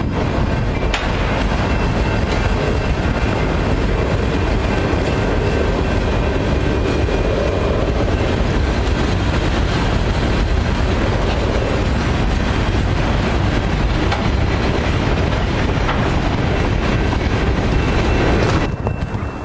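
A train rolling past, its wheels running over the rails with a steady rumble and some clickety-clack. A faint high squeal can be heard in places, and the sound cuts off suddenly near the end.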